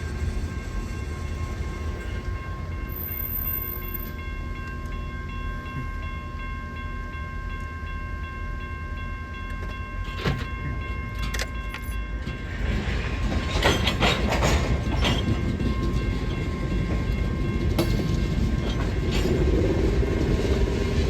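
A train running past: a low rumble with several steady tones held over it, then clanking and rattling from a little past halfway, and the rumble grows louder near the end.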